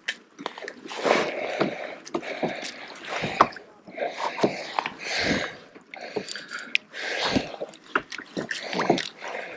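Kayak paddle strokes and water splashing against the hull, in irregular bursts with small knocks of gear.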